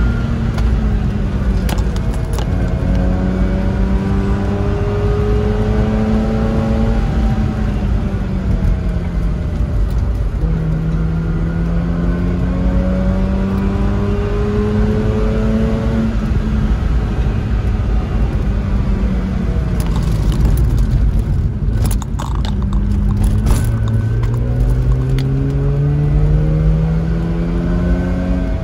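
Rotary-engined Mazda sports car driven hard on a winding road, heard from inside the cabin: the engine note climbs in pitch under acceleration and falls away again several times, over a steady rumble of tyres and road. A few sharp clicks come a little past the two-thirds mark.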